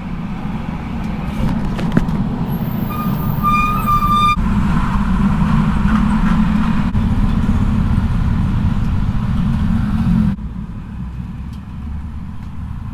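Motorcycle riding on a road with steady engine and road noise. A vehicle horn sounds briefly about three seconds in. The noise drops suddenly about ten seconds in.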